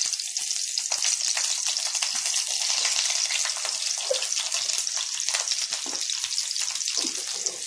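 Sliced onion sizzling in hot cooking oil in a frying pan: a steady, dense crackle of fine pops.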